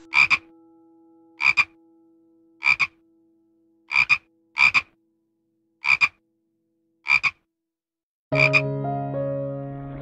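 A frog croaking: eight short calls, each a quick double croak, spaced about a second apart. Background music comes in near the end.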